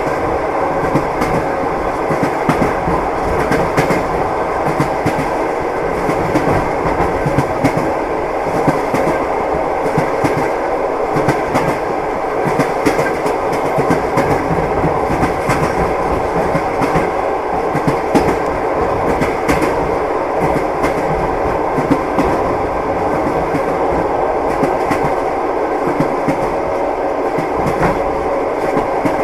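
Train wheels clacking over the rail joints, with the steady rumble of the moving train under many short clicks.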